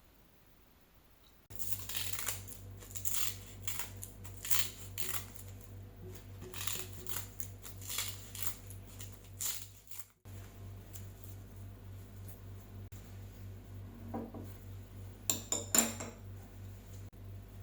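Quick sharp clicks and scrapes of kitchen or table handling, then a few knocks of dishes, over a steady low hum.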